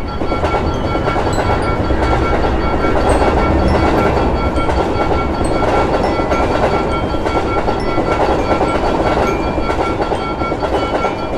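Passenger train passing over a level crossing: a loud, continuous rumble of wheels on rails that holds steady and eases off near the end. A few steady high tones run through it.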